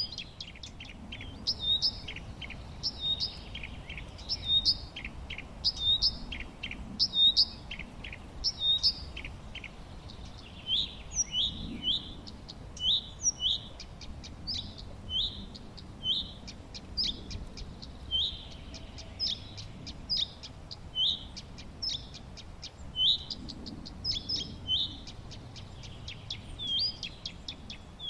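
Songbirds calling, with short sharp chirps repeated about once a second and the note shape changing about ten seconds in. Many fainter quick notes sound behind them.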